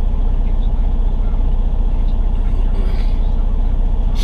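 Semi truck's diesel engine idling steadily with an even, fast low pulse. A short, sharp noise comes right at the end.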